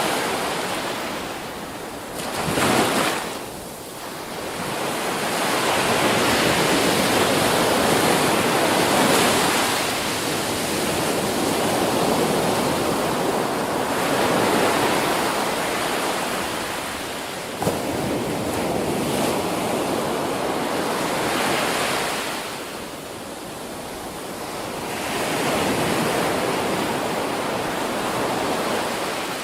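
Ocean waves breaking and washing on a beach. The surf rises and falls in long swells every few seconds, with one short, sharper surge about three seconds in.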